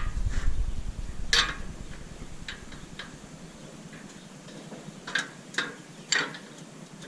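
Sharp metal clinks and taps as connector blocks and pins are worked into the sections of a three-piece motorcycle loading ramp: one about a second and a half in, two a second or so later, and three more near the end. A low rumble dies away in the first second.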